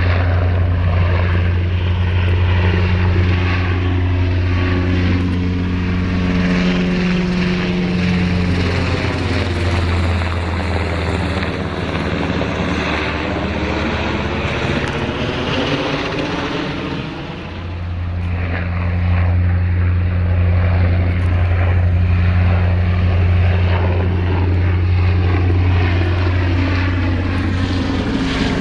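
Low-flying military aircraft passing: a steady low engine and rotor drone that gives way to a sweeping whoosh through the middle as it goes by, then the steady drone returns.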